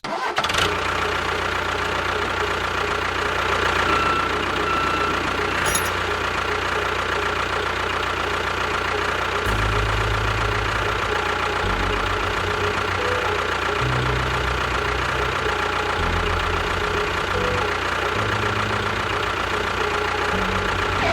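An engine running steadily at idle. From about halfway through, a deeper low throb comes and goes in short stretches.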